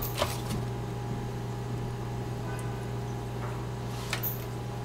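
Steady low hum of room and equipment noise, with a few light taps: one at the start, another just after, and two near the end.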